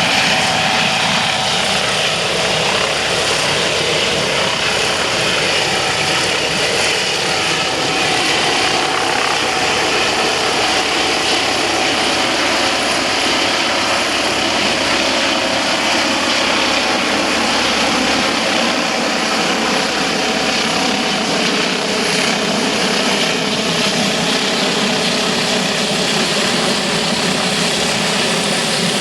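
Helicopter running steadily: a loud, even rush of engine and rotor noise with a few held tones.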